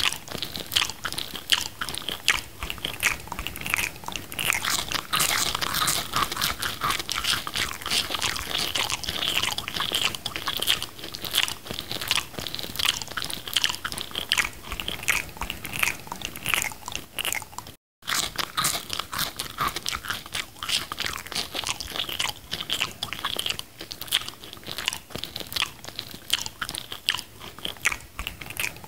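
Close-up chewing and mouth sounds of someone eating McDonald's food, a dense run of small wet, crackly clicks. The sound cuts out for an instant about two-thirds of the way through.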